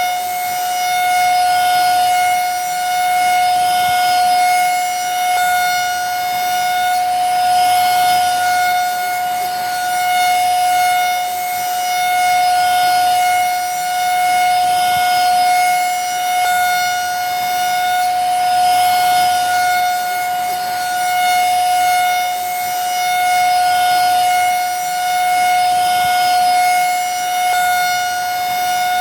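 Vacuum cleaner running steadily: a constant high motor whine over rushing air, its loudness swelling and easing slightly every couple of seconds.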